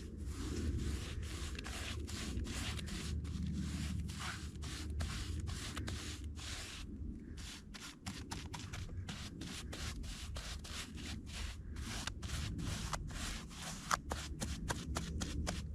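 Repeated brushing or scraping strokes, about two a second at first and quickening to about three a second in the second half, over a steady low rumble.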